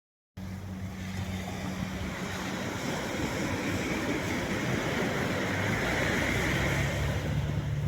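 Sea surf washing onto the shore, swelling to its loudest about five to six seconds in, over a low steady hum of a distant engine.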